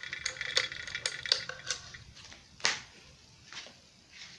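Light metallic clicking and clinking, a few irregular ticks a second that ring briefly, thinning out after about two seconds, with one sharper click near the middle. This fits the ceiling fan's metal pull chain swinging against its switch housing just after being pulled to low speed.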